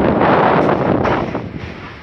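Wind rushing over the microphone at the window of a moving train, mixed with the train's running noise; it eases toward the end.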